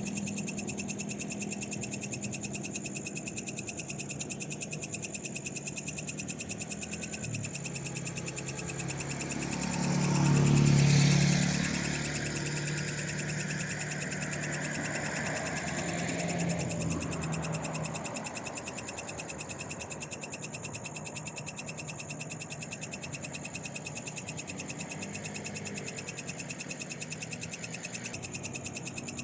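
Night chorus of frogs and insects, steady high trills and rapid pulsing calls. About ten seconds in a vehicle passes, swelling loud and fading away, with a fainter one a few seconds later.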